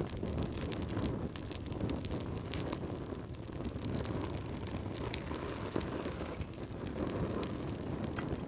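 Wood fire crackling in a fireplace: scattered sharp pops and snaps over a steady low rush of flame.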